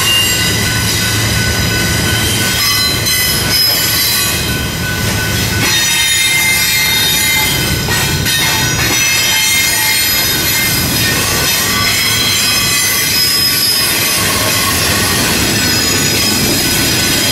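Double-stack intermodal freight cars rolling past, loud and steady, with wheels squealing in high-pitched tones over the rumble of the wheels on the rails.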